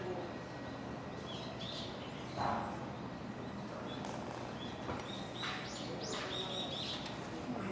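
Birds chirping: short, high calls scattered at first, then several in quick succession near the end.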